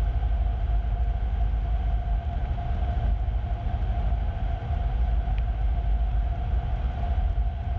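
Cessna 150's Continental O-200 flat-four engine and propeller running steadily, heard through the cockpit intercom feed as a constant low drone with a steady whine.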